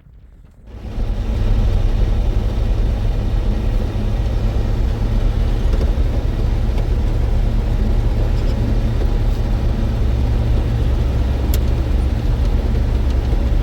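Motor vehicle engine running steadily with a low rumble, starting abruptly about a second in.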